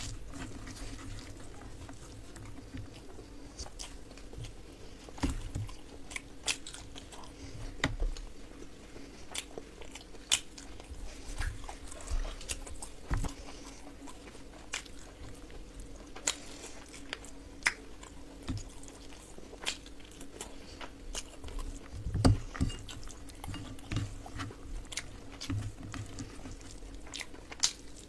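Close-up eating sounds: chewing and biting into crispy fried food and rice, with many short sharp crunches and mouth clicks at an irregular pace, over a faint steady hum.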